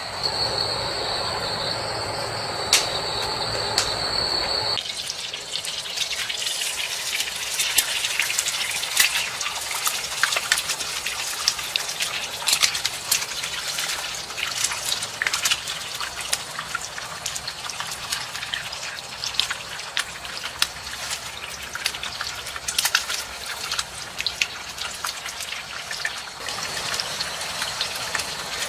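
Water trickling and splashing with many small irregular drips and splashes. For the first few seconds, steady high-pitched insect calls sound over it before the scene changes.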